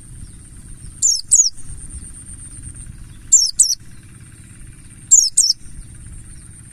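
Buxtoni white-eye (pleci) singing: three short phrases of two or three quick, high, downward-sliding whistles, about two seconds apart. A thin steady high tone and a low rumble fill the gaps.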